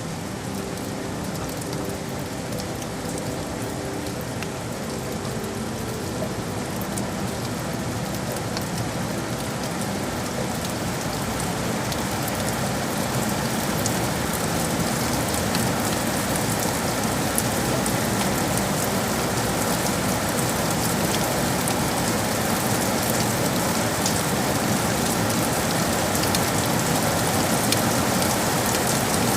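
Steady heavy rain falling on hard city surfaces, a dense patter of drops that grows gradually louder.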